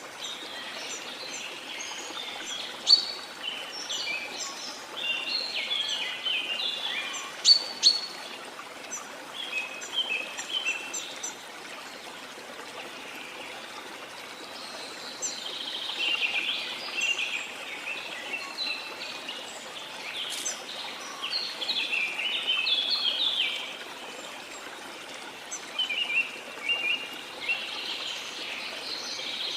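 Steady rush of a waterfall under tropical rainforest birds calling in bursts of quick, high chirps, with a lull in the birdsong about halfway through.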